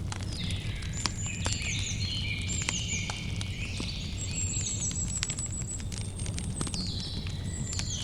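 Campfire crackling with frequent sharp pops over a low steady rumble, while birds chirp and trill through most of it.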